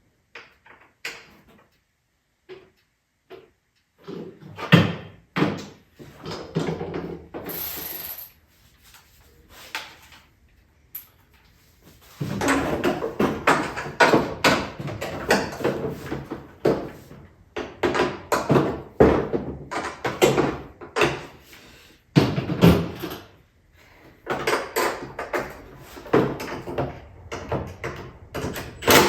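Irregular knocks and clatter of ATV body parts and hardware being handled and fitted in a garage workshop, nearly silent for the first few seconds, with a sharp thump about five seconds in and busier, denser clatter from about twelve seconds on.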